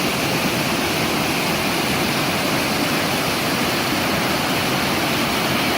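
Waterfall running with a steady, even rush of water.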